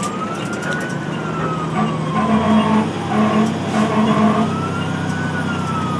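Fire engine's wail siren slowly rising and falling in pitch, over the truck's steady engine. About two seconds in, a few short horn blasts sound over it.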